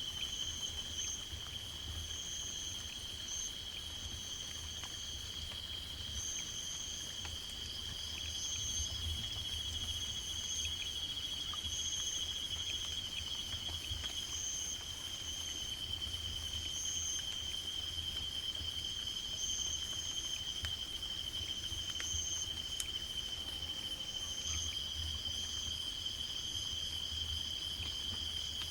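Insect chorus in the forest: one steady high trill runs without a break, while a second, higher trill starts and stops every second or two, over a faint low rumble.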